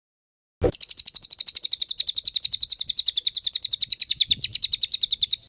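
A songbird delivering a rapid, machine-gun-like trill of high chirps, about eleven notes a second, held evenly for nearly five seconds: the fast 'tembakan' burst prized in birdsong tutoring recordings. It starts abruptly just after half a second in and cuts off just before the end.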